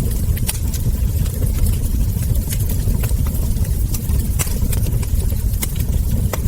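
Wood fire crackling: frequent sharp irregular pops and snaps over a steady low rumble of the burning logs.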